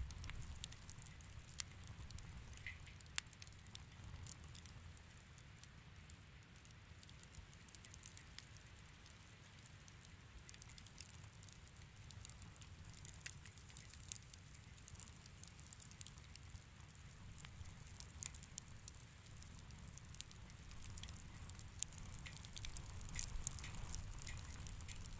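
A wood fire crackling in a fireplace: scattered sharp pops and snaps over a low, steady rumble, with the pops coming more often near the end.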